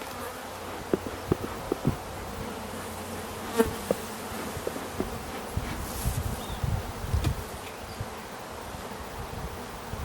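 Honeybees buzzing steadily around an opened hive, with a few light clicks and knocks scattered through.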